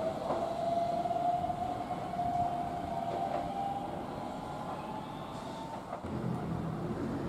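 Keihan electric train's traction motors whining, the pitch rising slowly as the train accelerates away from the platform, then fading. A low hum sets in near the end.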